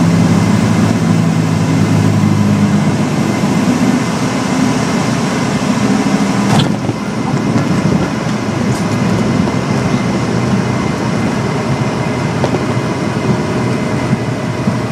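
Twin piston engines of a Cessna 310R running with a steady drone. Their low engine tone is strongest for the first few seconds and then settles into an even noise. A single sharp click comes about halfway through.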